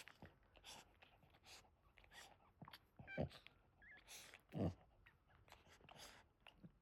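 Faint, wet licking and smacking from a Boston Terrier mother cleaning her newborn puppies, with two brief louder sounds about three and four and a half seconds in.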